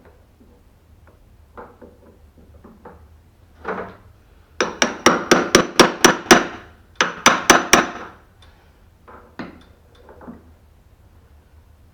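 Hammer rapping a steel punch on the door hinge, metal on metal. The strikes come in two quick runs of about ten and then four or five blows, roughly five a second, each with a short metallic ring. A few lighter knocks come before and after.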